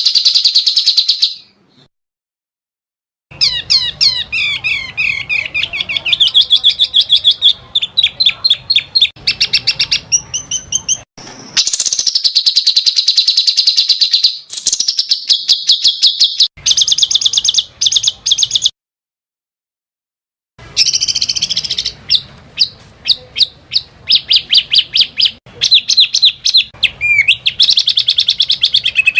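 Recorded songs of small songbirds, loud rapid-fire trills and fast repeated sweeping notes of the shrill kind called 'tembakan', used as masteran for training contest birds. The recording cuts to complete silence twice, about two seconds in and again around nineteen seconds in, before the songs resume.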